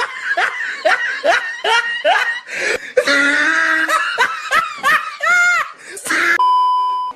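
People laughing hard in rapid repeated bursts, then a steady high beep lasting about half a second near the end.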